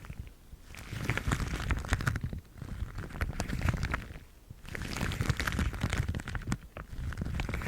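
Yellow rubber household gloves being rubbed and squeezed together, a crackly, squeaky rustle full of small clicks. It comes in four passes of about one and a half to two seconds each, with brief lulls between.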